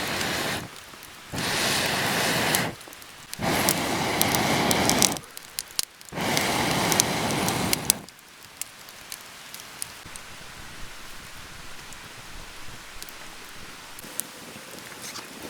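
Keichan (marinated chicken) sizzling in a hot pan over the fire: four loud spells of sizzling, each one to two seconds long, in the first eight seconds, then a quieter steady sizzle with scattered pops.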